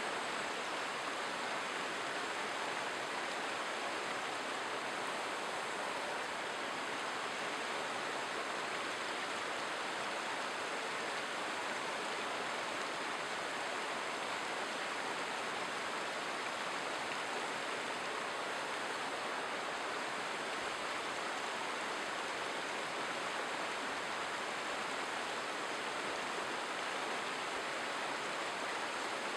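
A river's running water: a steady, unbroken rush.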